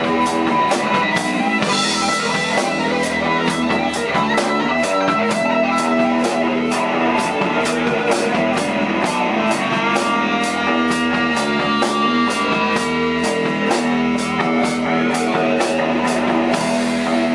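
Rock band playing live: guitar over a drum kit keeping a steady beat of about two hits a second.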